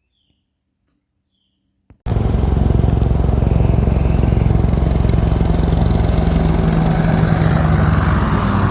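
Near silence, then about two seconds in a low-flying helicopter cuts in suddenly: loud, steady rotor and engine noise passing close overhead.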